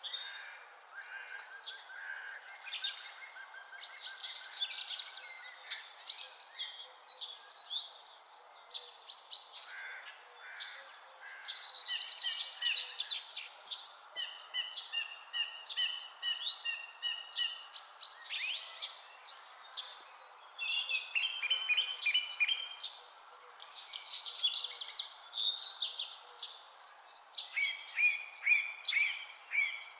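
Several songbirds singing and calling at once: overlapping chirps, quick trills and short whistled phrases, over a faint steady background hiss.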